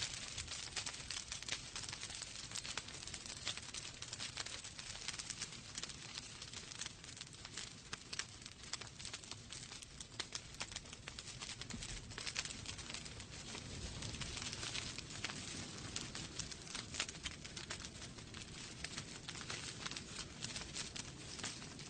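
Wood fire burning in a fireplace, logs crackling steadily with dense small pops and snaps and a soft low rumble of the flames.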